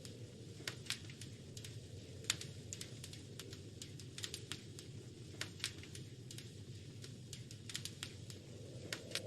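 Wood fire crackling, with irregular sharp pops and snaps over a steady low rumble of the flames; the loudest pop comes a little over two seconds in.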